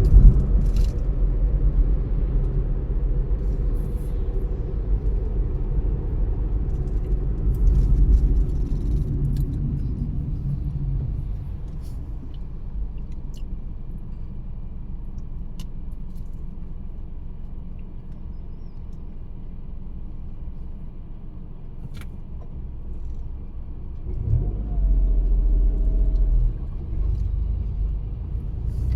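Car driving on the road: steady low engine and tyre rumble that eases off and quiets through the middle, then picks up again louder near the end.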